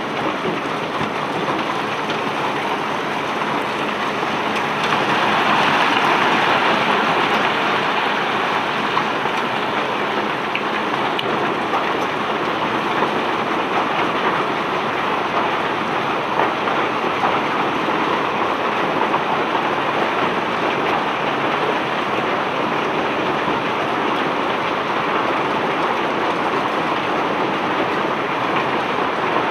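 Cobblestones pouring off a barge: a dense, continuous rattling hiss of many stones sliding and tumbling, which swells about five seconds in and then holds steady.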